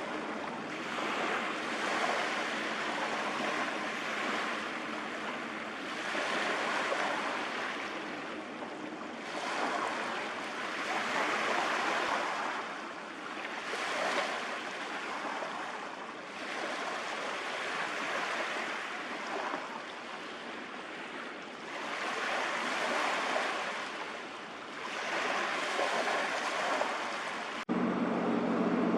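Sea waves washing and rushing, swelling and easing every two to three seconds. Near the end it cuts suddenly to a steady low engine hum.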